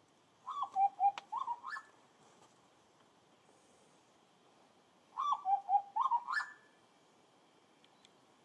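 A bird calling: two short phrases of whistled notes about five seconds apart. Each phrase starts with a falling note, drops to a few lower notes, then climbs at the end.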